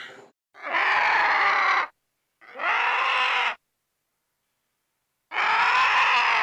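Three harsh animal calls, each about a second long, with silent gaps between them.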